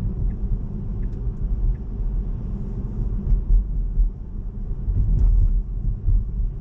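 Road and tyre noise inside a Tesla's cabin while driving on a wet road: a steady low rumble, with a few faint light ticks over it.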